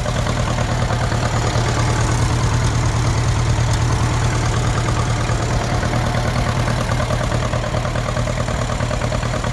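Ferguson TEA20 tractor's four-cylinder engine, converted to run on TVO, running steadily with an even, fast beat.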